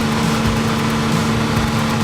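An engine running steadily at a constant speed, with an even hum over a rough low throb.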